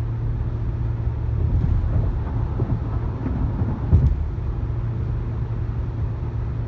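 Steady low road rumble inside a Honda Odyssey minivan cabin at highway speed. About four seconds in there is a single short thump as the tyres cross the raised joint where an overpass meets the pavement, which the new Monroe struts soak up.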